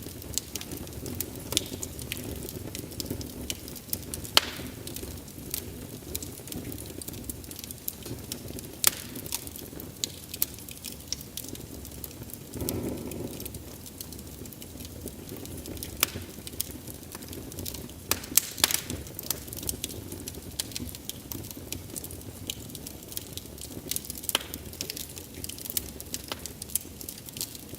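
Wood fire crackling: frequent irregular sharp pops and snaps over a low steady rush of burning, with a few louder pops scattered through and a brief swell in the rush about halfway.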